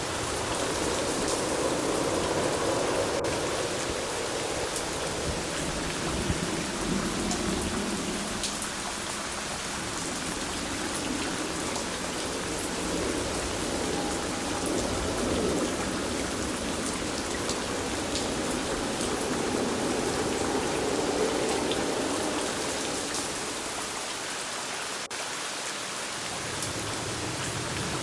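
Steady rain falling, with the fine ticks of single drops striking a surface.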